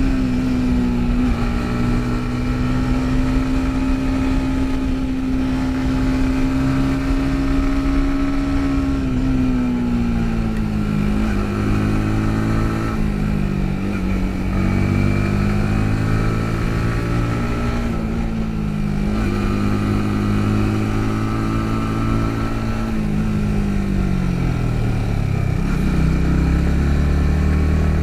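Yamaha MT-15's single-cylinder engine heard from the rider's position. It holds a steady note for the first several seconds, then eases off and picks up again a few times, and winds down to a low note near the end as the bike slows.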